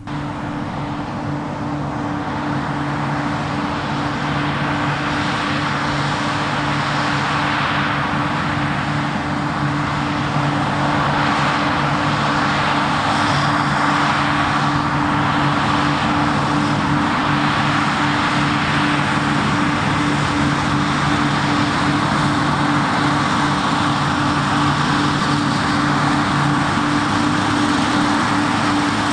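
Large diesel harvest machinery running steadily under load, a constant engine drone with a dense mechanical rush over it, growing louder over the first ten seconds and then holding.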